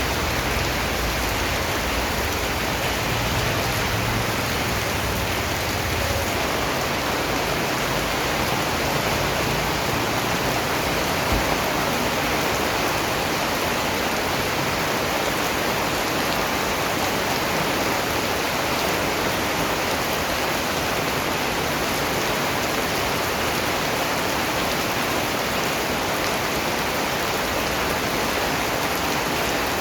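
Steady rain falling, an even hiss with no pause or change, with a low rumble in the first few seconds.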